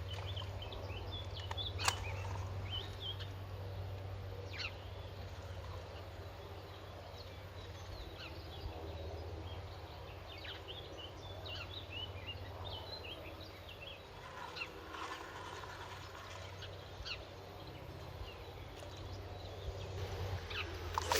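Small birds chirping and calling in short, scattered phrases over a steady low rumble, with a sharp click about two seconds in.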